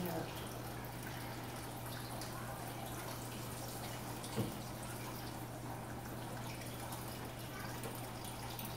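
Fry bread dough frying in hot grease in a skillet, a steady sizzle and crackle, with one short knock about four and a half seconds in.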